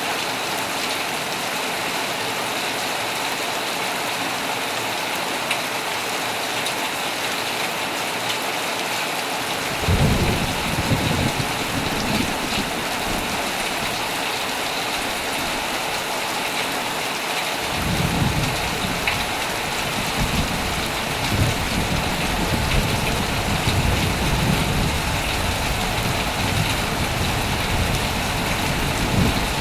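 Heavy rain falling steadily on a tent. Thunder rumbles in about ten seconds in, dies away, and rolls in again from about eighteen seconds on.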